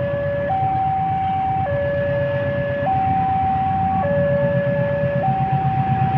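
Two-tone warning alarm alternating between a higher and a lower note about every 1.2 s, over the low, throbbing rumble of a CC205 diesel-electric locomotive's engine, which grows slightly louder.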